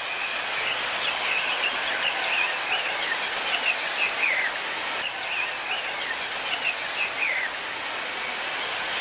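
Small birds chirping in many short, quick, falling notes over a steady hiss of outdoor ambience.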